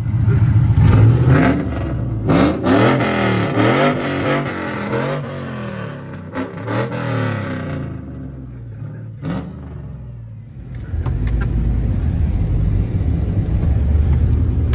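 Chevrolet Trailblazer's 5.3 LS V8 on 799 cylinder heads, revved hard again and again, the pitch climbing and falling, with a few sharp pops. About eight seconds in it drops away, then from about eleven seconds it settles into a steady low rumble.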